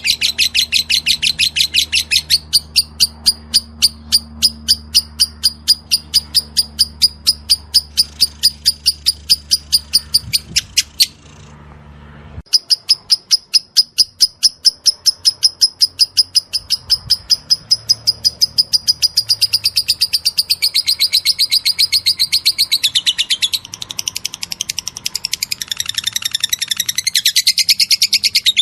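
Lovebird ngekek: a long, rapid trill of sharp high chirps, about ten a second. It breaks off briefly about eleven seconds in, then carries on.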